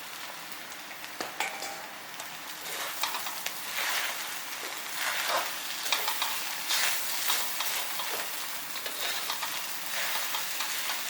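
Stir-fried ramen noodles with cabbage and sauce sizzling in a hot pan as they are stirred, with irregular scrapes and clicks from the stirring. The sizzle grows louder a few seconds in.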